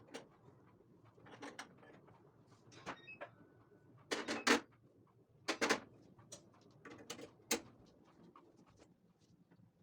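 Scattered knocks and clatters of household items being handled and set down, loudest in two short clusters about four and five and a half seconds in.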